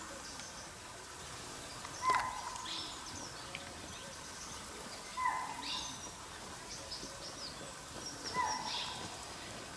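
A bird calling three times, about three seconds apart, each call a short note that falls in pitch, with fainter high chirps between.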